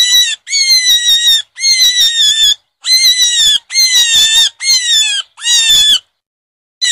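Rabbit squealing: a run of about seven loud, shrill squeals, each under a second long and dipping slightly in pitch, with a short pause near the end before another starts.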